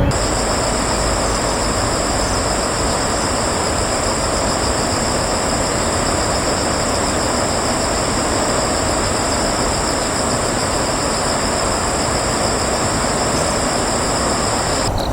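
Steady outdoor background noise with a continuous high-pitched buzzing drone over it; both cut off sharply at the end.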